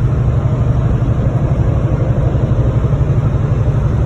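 Steady low drone of a car-hauler truck's engine and road noise heard from inside the cab while cruising on the highway.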